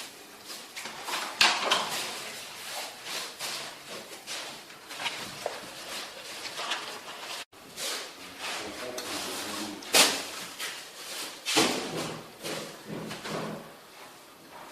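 Irregular scrapes and knocks of hand tools working mortar against ceramic stove tiles while the tile rows are filled, with the sharpest knock about ten seconds in.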